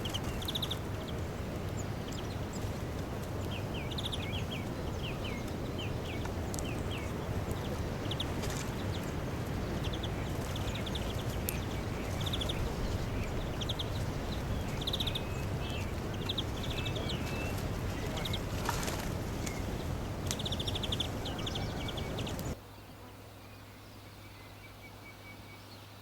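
Small birds chirping in short, repeated trills over steady background noise. About 22 seconds in, the background drops away suddenly and only faint, quick chirps remain.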